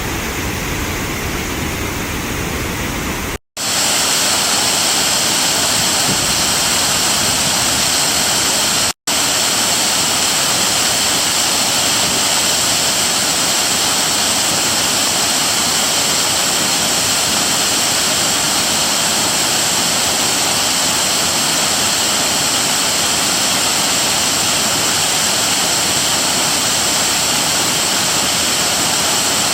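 Waterfall: a steady, loud rush of falling water. It cuts out briefly twice, about three and a half and nine seconds in, and is louder and brighter after the first break.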